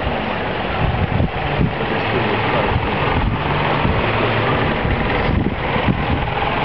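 Strong wind buffeting the microphone, a loud, steady rushing with a low hum underneath.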